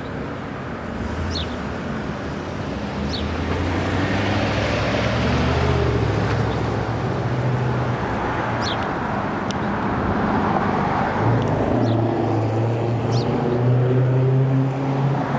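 City street traffic: engines humming steadily and vehicles passing, the sound swelling as each goes by, with a few short high chirps over it.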